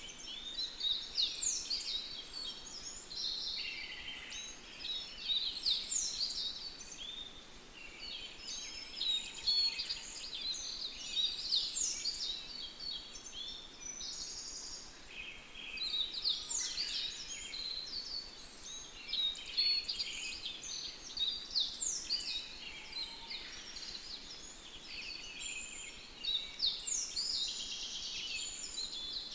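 Birdsong: bursts of quick chirps and falling whistled notes that come back about every five seconds, over a faint steady hiss.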